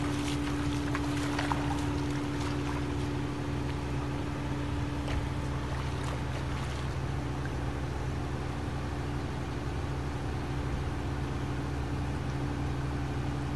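An engine running steadily at a constant pitch, with a few light clicks or knocks in the first several seconds.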